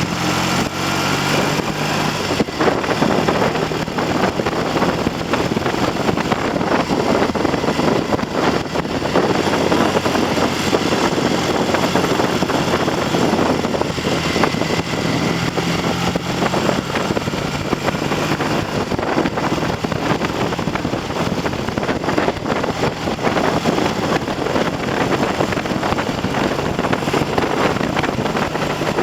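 Triumph TR6's 650 cc parallel-twin engine running on the road under light throttle, freshly rebuilt with new pistons and rings and being run in. Heavy wind noise on the microphone largely covers it.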